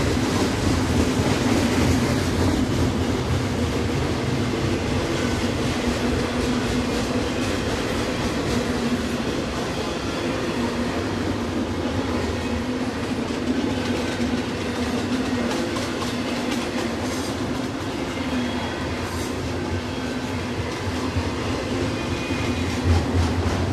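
Norfolk Southern freight train of stacked container cars rolling downgrade past the listener: a steady rumble of steel wheels on the rails with faint clicks.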